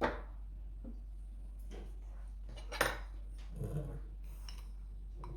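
A few separate clinks and knocks of kitchenware being handled, the loudest a little before the middle, over a steady low hum.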